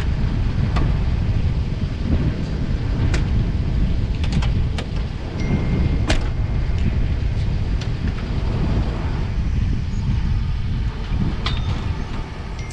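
Pickup truck engine running as the truck is driven, a steady low rumble with scattered clicks and knocks.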